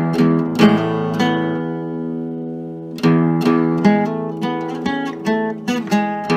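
Instrumental music: chords strummed on an acoustic string instrument, several quick strokes, then one chord left ringing for nearly two seconds, then another run of strums.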